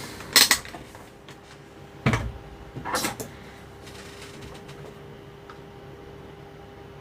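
A few short clattering knocks of objects being handled on a workbench, about half a second, two and three seconds in, followed by a faint steady hum.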